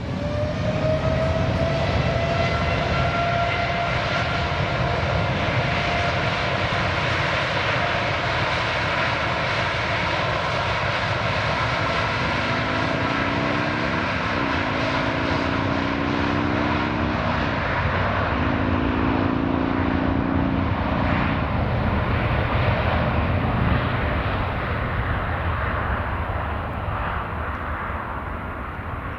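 Jetstar Boeing 787-8 Dreamliner's jet engines at take-off thrust on departure: a loud, steady roar with a whine that slowly falls in pitch. The roar eases a little near the end.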